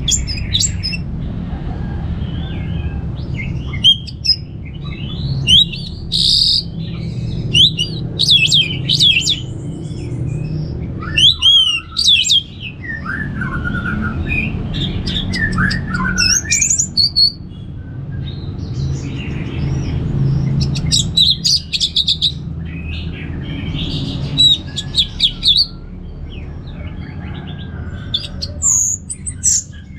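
Orange-headed thrush singing a run of varied song phrases, quick whistles and chattering notes with short pauses between them, over a steady low hum.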